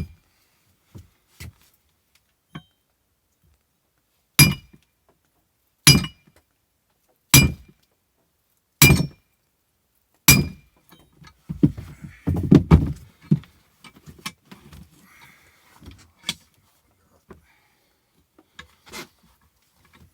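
Hammer blows ringing on steel, five even strikes about a second and a half apart, then a quick flurry of knocks and two more single blows, as a broken handle is driven out of an axe head.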